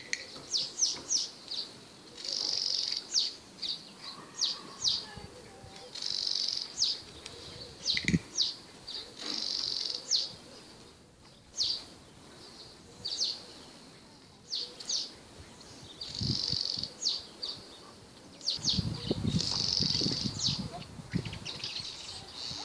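Small birds calling over and over: runs of quick, high, falling chirps alternating with buzzy trills about a second long.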